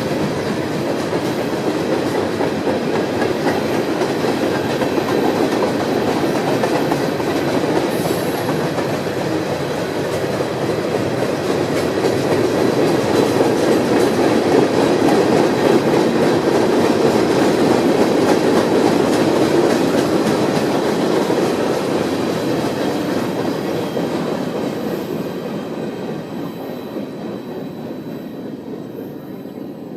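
Freight cars of a mixed freight train rolling past on the rails, wheels clacking over the track, the sound fading away over the last few seconds as the train recedes.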